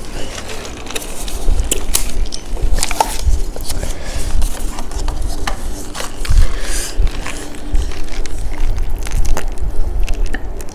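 Close-up chewing of crispy fried chicken, with crackling crunches and wet mouth clicks throughout.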